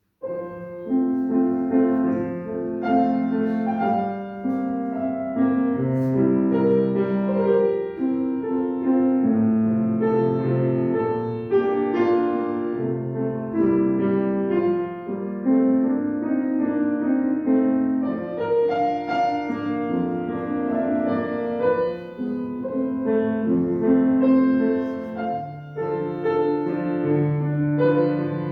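Piano playing classical music, beginning abruptly after silence and carrying on steadily with sustained notes and chords.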